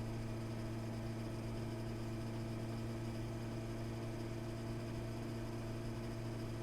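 Honda CB650R's inline-four engine running at steady revs, an even engine note that holds without revving up or down.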